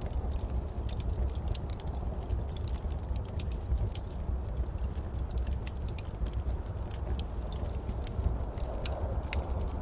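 Wood fire burning in a fireplace, crackling with many irregular snaps over a steady low rumble.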